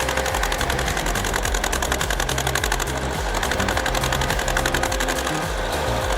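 Engine running steadily with a fast, even knocking beat.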